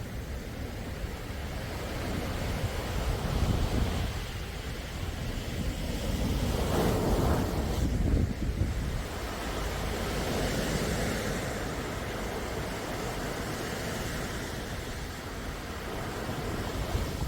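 Sea waves washing in, the surf noise swelling and falling back every few seconds, with a low rumble of wind on the microphone.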